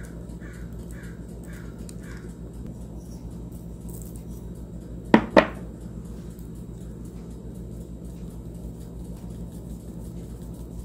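A bird calling repeatedly, about two calls a second, for the first two seconds over a low steady hum. About five seconds in come two sharp clicks a fraction of a second apart, the loudest sounds.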